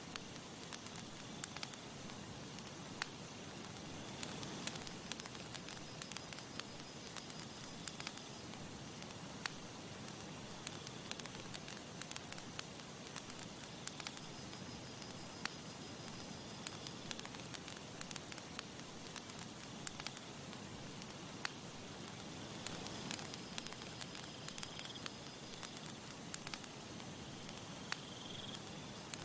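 Campfire crackling steadily, with frequent sharp pops and snaps of burning wood over a soft hiss. A faint high, thin tone comes and goes in the background.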